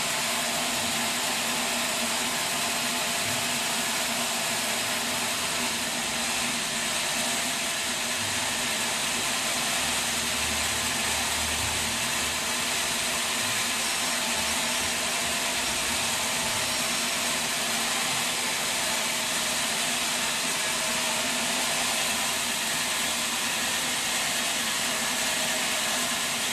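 Sawmill machinery running steadily: a constant mechanical hum with a loud, even hiss, which does not change.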